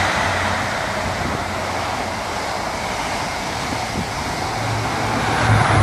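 InterCity 125 High Speed Train passing through the station at speed: a steady rush of air and wheels on rail as the power car and coaches go by. A low engine hum grows near the end.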